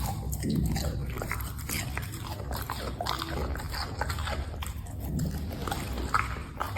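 A dog chewing and eating food, with irregular clicks and crunchy bites.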